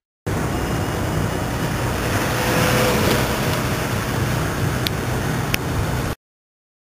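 Steady rushing wind and road noise with low rumble, as from riding, with two short sharp clicks near the end; it cuts off suddenly.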